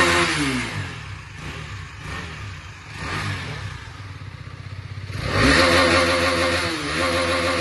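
KTM Duke 250's single-cylinder engine being revved with the throttle: it falls from a high rev at the start to a lower run with a small blip, then about five seconds in is twisted up hard and held at high revs with a brief dip.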